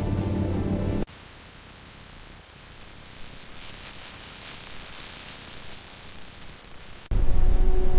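Background music cuts off about a second in, giving way to a steady soft hiss. Near the end, louder music with a deep rumble cuts back in.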